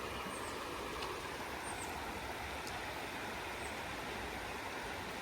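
Steady rushing of a waterfall and flowing water, with a few faint, brief high chirps over it.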